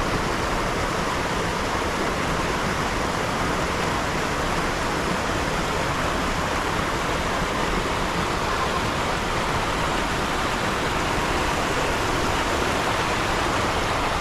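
Rushing water, a steady, unbroken hiss.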